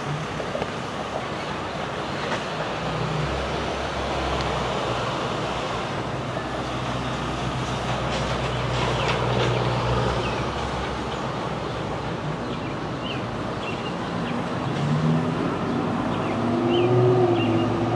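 A train running by: a steady rumbling noise over a low engine hum that grows gradually louder, with a wavering engine tone coming in near the end.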